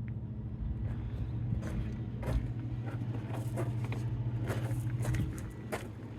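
2016 Toyota Camry engine running with a steady low hum and irregular sharp clicks, a few a second: the weird engine noise the owner is asking about. The hum eases slightly about five seconds in.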